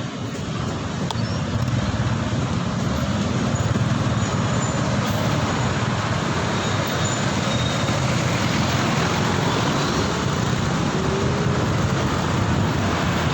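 Steady road and traffic noise heard while riding: a continuous low rumble with a hiss of wind and tyres, dipping briefly at the start and then holding even.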